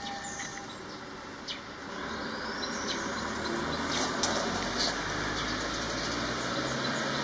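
Low, steady engine rumble of a motor vehicle, growing louder about two seconds in, with a few faint clicks.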